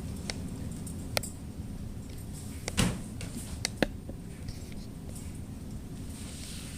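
A handful of short, sharp clicks and knocks, the loudest about three seconds in, over a steady low hum.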